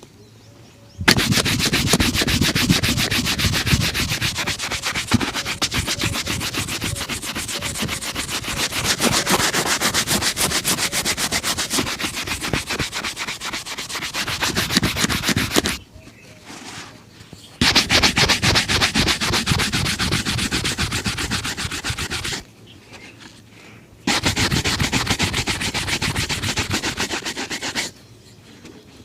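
A leather shoe being brushed hard in rapid back-and-forth strokes, a dense scrubbing rasp in three long bouts with short pauses between them.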